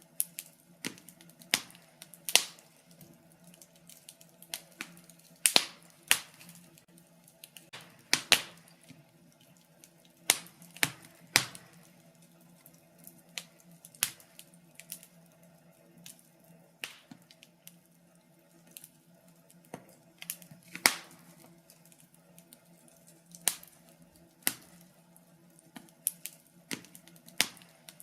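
Fire burning in a fireplace, crackling with irregular sharp pops and snaps, a few of them much louder than the rest, over a faint steady hum.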